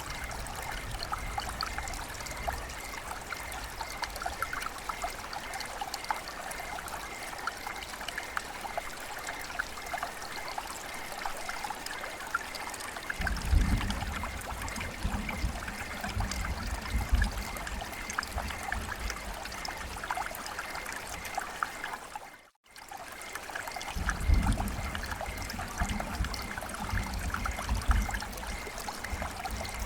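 Rain falling with water trickling and flowing, thick with small drip sounds. A low rumble comes in about 13 seconds in. The sound cuts out for a split second around 22 seconds, and the rumble returns shortly after.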